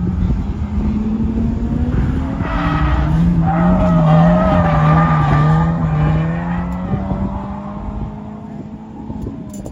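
Drift car's engine running hard with tires squealing through a slide, loudest in the middle, then the squeal stops and the engine fades off.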